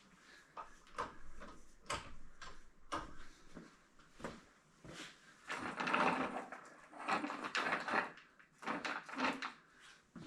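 Irregular knocks and clatter, like things being handled and set down, busier and noisier around the middle.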